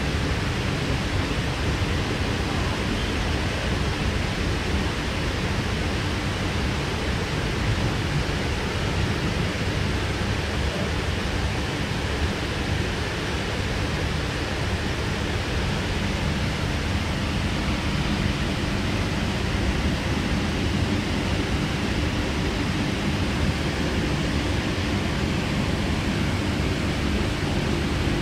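Steady running noise inside a Sydney Trains K-set double-deck electric train carriage under way: a continuous low rumble of wheels on rail and body noise. A faint steady hum sits beneath it and grows a little stronger near the end.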